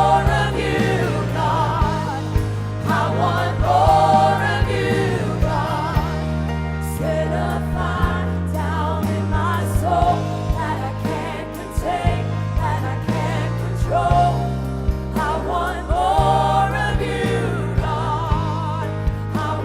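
Worship music with singing: sustained keyboard and bass chords that change every second or two under voices singing with vibrato, with drum hits throughout.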